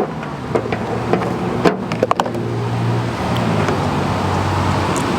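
A steady low motor hum with a wash of noise that grows louder through the second half, and a few light clicks and taps in the first half.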